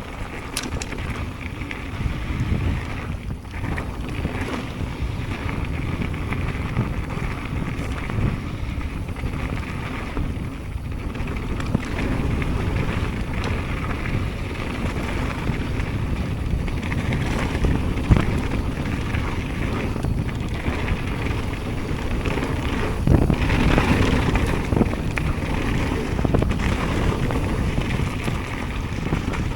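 Wind rushing over the microphone while riding a mountain bike, with steady tyre and trail noise and a few sharp knocks from the bike going over rough ground.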